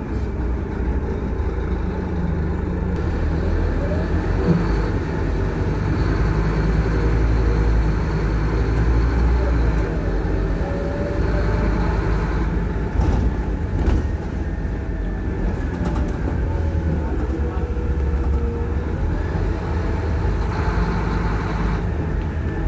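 Scania K230UB Wright Solar single-decker bus under way, heard from on board: a steady, deep engine rumble with a whine that rises and falls in pitch as the bus speeds up and slows.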